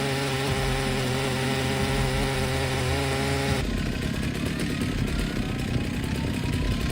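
Holzforma G888 two-stroke chainsaw running at full throttle through an oak log, with a steady, even engine note. It cuts off abruptly about three and a half seconds in. A different low engine rumble with a faint, slowly rising whine follows.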